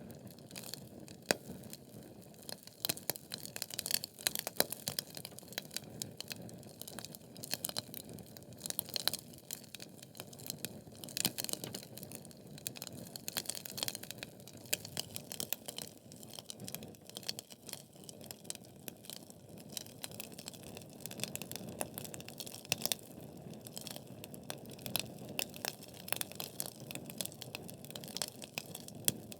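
Wood fire of burning logs crackling, with frequent irregular sharp pops and snaps over a soft steady rush of flame.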